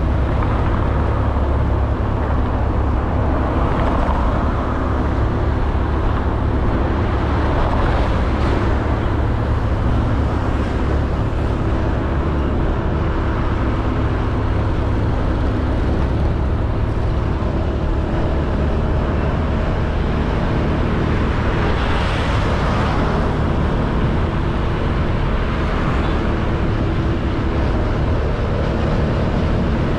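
Honda Beat 110cc scooter riding at steady speed, its small engine running under heavy wind rumble on the camera microphone, with road noise. The noise swells a few times, most clearly about 22 seconds in.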